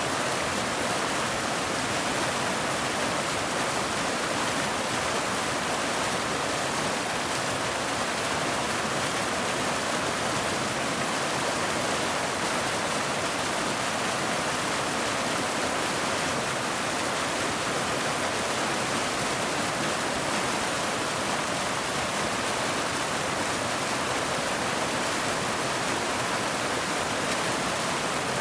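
Steady rain: an even, unbroken hiss with no separate drops, thunder or other events standing out.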